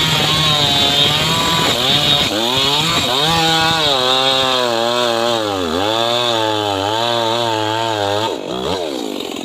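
Two-stroke chainsaw cutting wood, its engine speed rising and falling as it works. The pitch sags about halfway through, then drops sharply and swings back up near the end.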